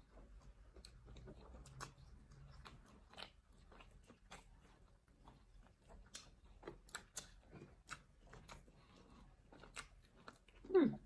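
Mouth sounds of people chewing pizza: soft wet smacks and clicks, several a second. Near the end comes one short voiced 'mm' that falls in pitch, louder than the chewing.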